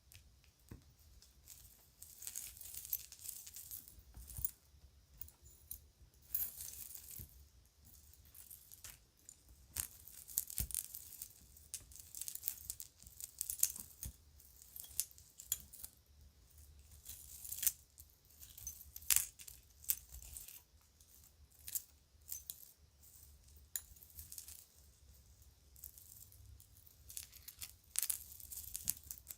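Children's toy jewelry being handled, with irregular small clicks and clinks and short bursts of rustling.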